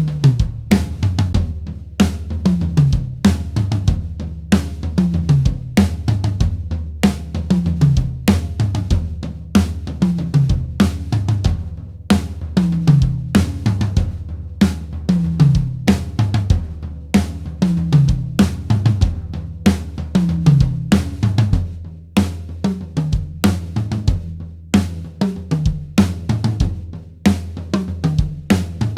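Acoustic drum kit played in a steady groove with kick, snare, hi-hat and cymbals, and repeated tom fills that step down in pitch from the higher toms to the floor toms about every two seconds. The toms carry Evans double-ply HD Dry or single-ply UV1 heads, giving a short, defined tom sound.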